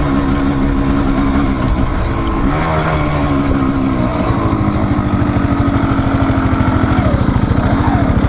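Dual-sport motorcycle engine running at low revs. From about four seconds in it settles into a fast, even low pulsing, like an idle.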